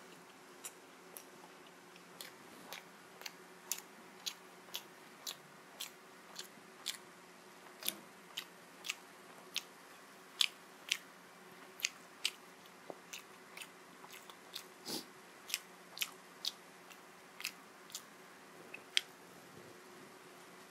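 Close-up chewing of steamed chicken momo dumplings: wet mouth smacks and clicks, about two a second.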